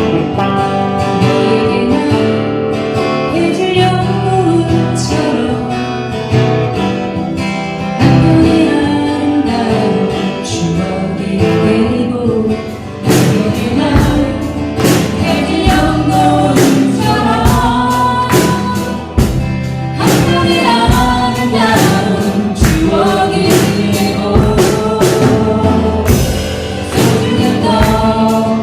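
Acoustic guitar strummed while voices sing a song together; the strumming comes through more sharply about halfway through.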